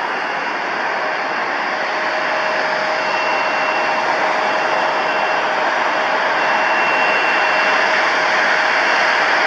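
Jet airliner's engines running with a steady, wide rushing noise and a thin whine, growing slowly louder as the aircraft nears.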